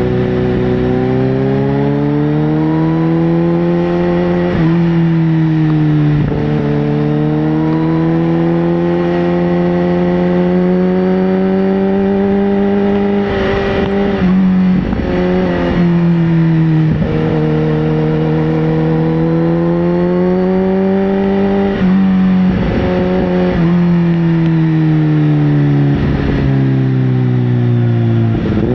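Sport motorcycle engine running under way, its pitch climbing slowly and then dropping sharply several times, as when the rider accelerates and changes gear.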